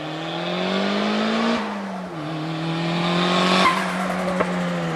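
Turbocharged Honda D16Y8 four-cylinder Civic engine, its blow-off valve blocked off, pulling hard. The revs climb, drop at a gear change about a second and a half in, then climb again and fall off as the throttle closes past three and a half seconds, with a couple of short sharp chirps.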